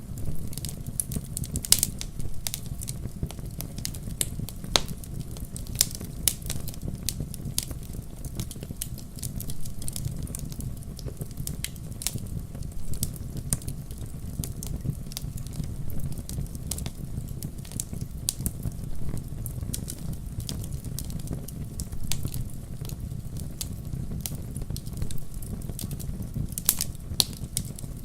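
Wood fire crackling in a fireplace: irregular sharp pops and snaps of burning firewood over a steady low rumble of the flames.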